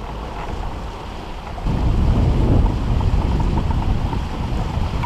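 Wind buffeting the microphone aboard a sailboat under way, with a steady rush of wind and sea beneath; the rumble turns suddenly louder a little under two seconds in.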